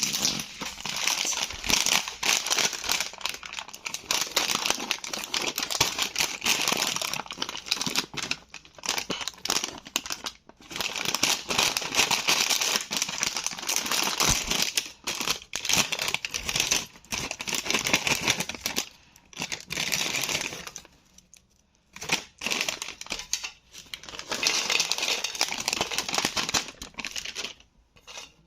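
Plastic chip packets of Bingo Mad Angles crinkling as they are handled and squeezed, in several long bouts with short pauses between them.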